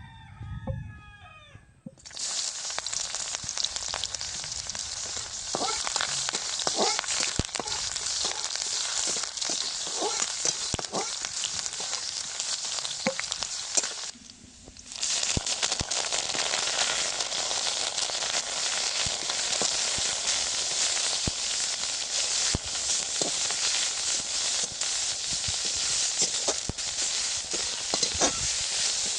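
Food frying in hot oil in a pan: a steady loud sizzle with many small crackles and pops. It breaks off for about a second near the middle, then carries on.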